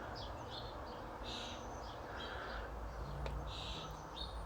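A bird giving short, high chirps, repeated several times about every half-second to a second, with one faint click near the middle.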